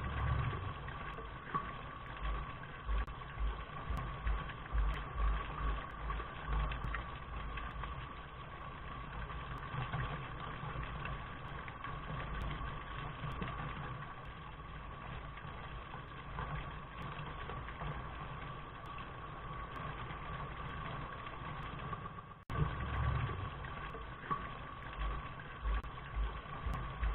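Looped recording of steady rain, a dull muffled rush with irregular low thumps and a constant faint hum. The loop cuts out and restarts about 22 seconds in.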